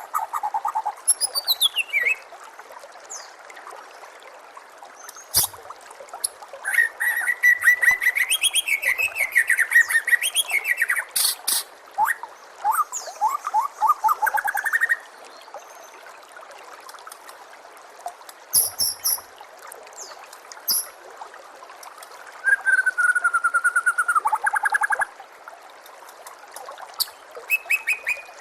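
White-rumped shama singing in several separate phrases: whistled notes repeated rapidly, rising and falling glides, and sharp high chips. Under the song runs a steady hiss of trickling water.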